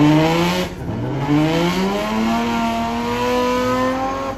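Drift car's engine accelerating hard. Its pitch climbs, drops briefly at a gear change less than a second in, then climbs again and holds high.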